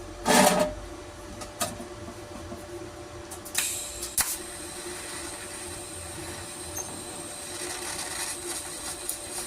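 Sharp metal knocks and clanks from tools working at a seized, rusted fitting on the engine: the loudest is about half a second in, and a few lighter clicks follow over the next few seconds. A steady hum runs underneath.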